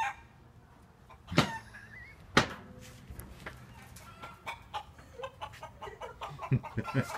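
Domestic chickens clucking quietly, with short calls and small scattered sounds. Two sharp knocks stand out, about a second and a half in and again a second later.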